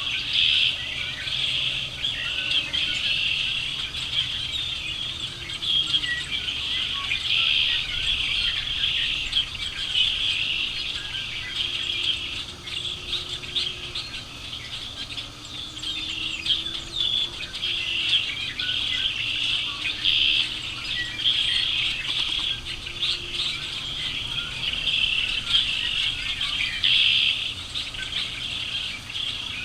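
Many small birds chirping and singing together in a dense, continuous chorus of overlapping high calls.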